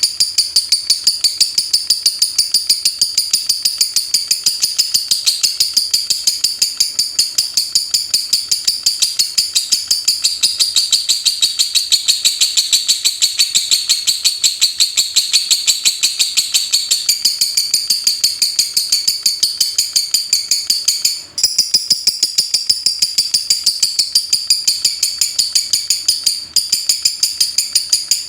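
Lovebird singing in the 'ngetik' (typing) style: a long, fast run of sharp, high chirps in quick succession like typewriter keys, broken by two very brief pauses in the second half.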